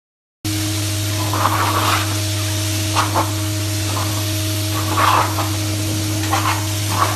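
A steady machine hum with a hiss, broken by several short noisy bursts.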